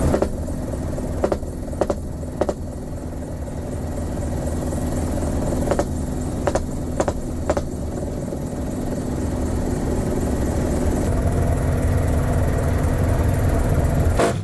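Mi-35M helicopter running steadily, a low rumble with a held hum, heard from on board. About seven short, sharp cracks fall over the first half.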